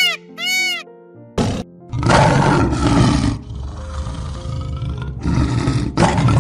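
Two high, arching animal calls over sustained music notes. From about a second and a half in, a series of loud, deep, rough roars, the strongest about two seconds in and again near the end.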